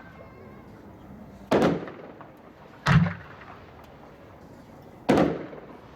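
Shells from a 3-inch 9-shot consumer fireworks rack going off: three sharp bangs, about a second and a half and then two seconds apart.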